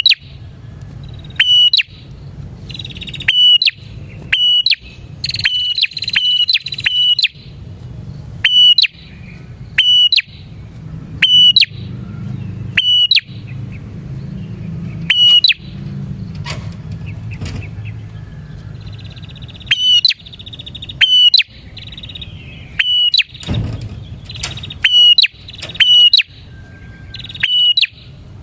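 Prenjak (prinia) calling loudly: sharp, clicky chirps repeated about once or twice a second, broken by a few quicker runs of notes, over a low steady hum.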